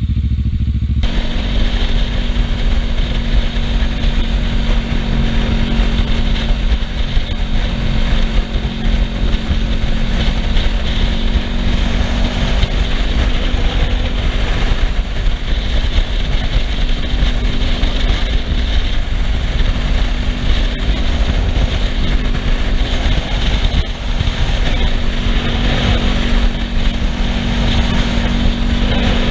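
Kawasaki Ninja 650R parallel-twin engine running steadily under way, with heavy wind and road rush that comes in suddenly about a second in.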